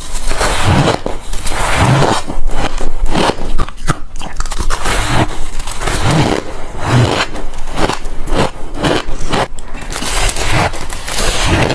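Close-miked biting and chewing of soft, frosty ice chunks: repeated loud crunches, one after another, with squeaky, powdery scraping as the ice breaks.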